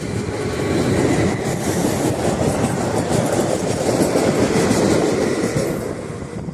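A train passing close by: a loud rumble and rattle of wheels on the rails. It swells about a second in and fades away near the end.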